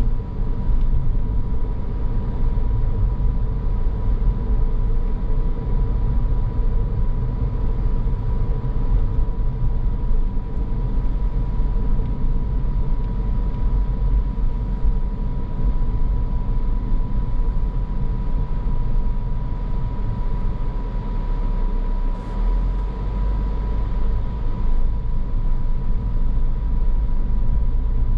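Car on the move: steady low road and tyre rumble with engine noise, and a thin steady whine running through it.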